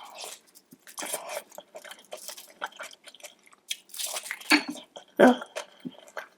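Close-miked eating of seafood: a person chewing and biting, with irregular wet clicks and crunchy bites. The loudest bites come about four to five seconds in.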